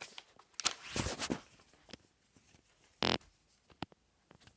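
Paper airplane being thrown in a small room: a rustling paper swish about a second in, then one short sharp hit about three seconds in.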